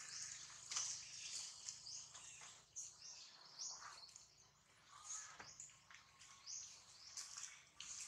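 Faint outdoor background with many short, high bird chirps scattered throughout, and a few soft clicks.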